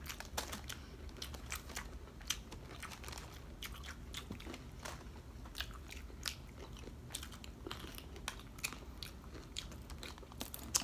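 Close-miked chewing of crispy breaded fried pork chop and vegetables: irregular crunches and crackles of the crust between chews.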